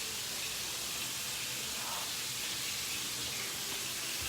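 Blackened chicken sizzling steadily in a hot pan, an even hiss.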